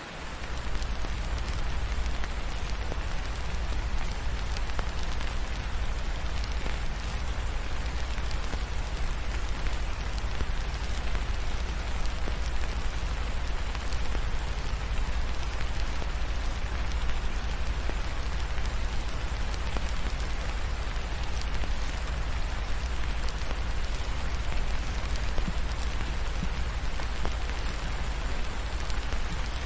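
Steady rain falling, an even hiss with scattered drop ticks, over a deep low rumble.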